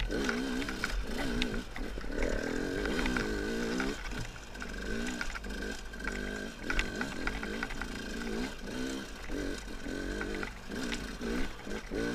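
KTM two-stroke enduro motorcycle engine revving up and down over and over, its pitch rising and falling with the throttle on a rocky trail climb, with scattered short knocks from the bike over the rocks.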